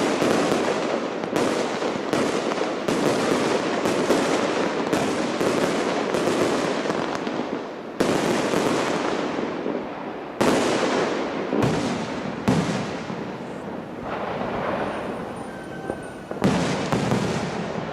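Large professional fireworks display: a dense barrage of overlapping bursts and crackle, then, about halfway through, separate loud bangs a second or two apart, each trailing off in a rumble.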